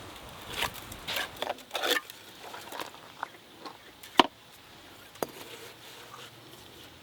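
Irregular rustling and light knocks of handling or work, with one sharp click about four seconds in and a smaller one about a second later.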